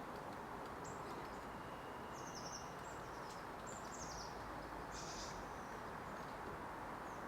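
Small wild birds giving a few short, high chirps, in groups about two, three and five seconds in, over a steady background hiss of outdoor ambience.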